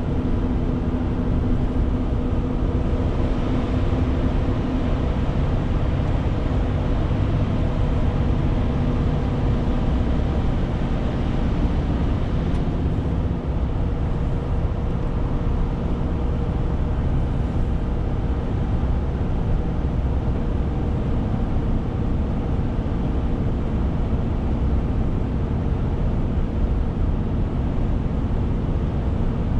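Renault T520 truck on the move: the diesel engine runs steadily under a constant rumble of road and wind noise.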